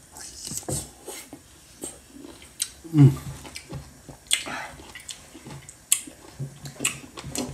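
A man chewing and slurping sour lime, with wet lip smacks and mouth clicks throughout and a short vocal groan at the sourness about three seconds in.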